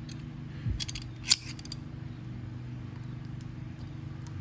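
A few sharp metal clicks and clinks of hand tools working on the mower engine's fuel and carburetor parts, the loudest about a second and a half in, over a steady low hum.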